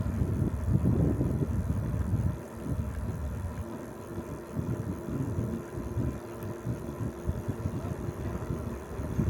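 Wind buffeting the microphone while riding a bicycle: an uneven low rumble with no clear pitch.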